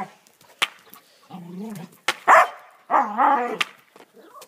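Border Collie vocalising: a low drawn-out whine, then louder barking bursts, with a few sharp clicks between.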